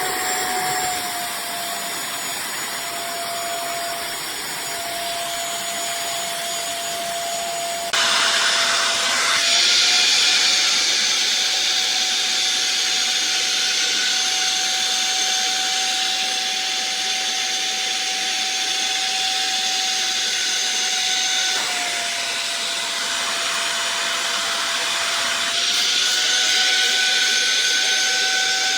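Rivenara 450 W wet upholstery vacuum cleaner running: a steady motor whine that shifts slightly up or down in pitch a few times. A louder rushing hiss comes in about a third of the way through, drops away, and returns near the end.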